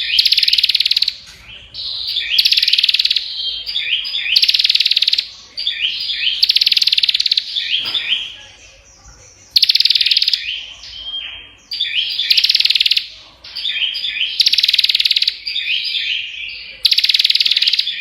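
Bar-winged prinia (prenjak) singing without a break: loud, buzzy, rattling phrases about a second long, repeated every couple of seconds, with clusters of short sharp chirps between them.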